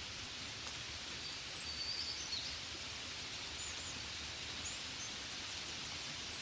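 Steady rain falling as an even hiss, with a few short, high bird chirps about a second and a half in and again around four and five seconds.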